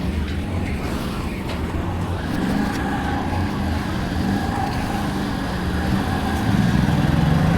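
Motor traffic: a vehicle engine running close by over steady street noise, getting louder about six and a half seconds in.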